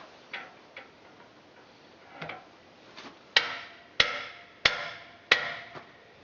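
A few soft clicks and taps, then four sharp knocks evenly spaced about two-thirds of a second apart, each ringing briefly.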